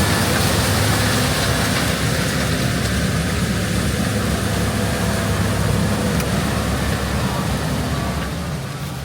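Heavy diesel harvest machinery running steadily, a low engine hum under a broad mechanical rush; the sound eases slightly near the end.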